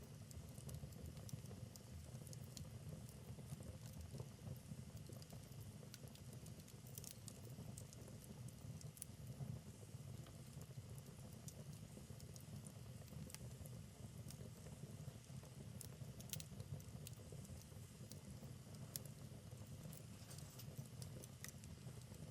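Wood fire burning in a fireplace: a soft, steady low rumble of flames with frequent small crackles and pops from the logs.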